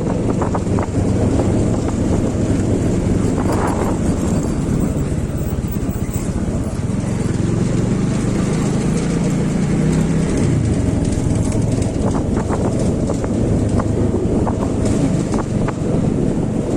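Motorcycle engine running under way on an off-road ride, its pitch rising for a few seconds about halfway through, with scattered sharp clicks over the engine.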